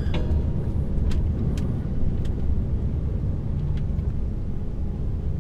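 Heavy goods lorry running at steady speed, heard from inside the cab as a steady low rumble of engine and road noise, with a few faint sharp ticks.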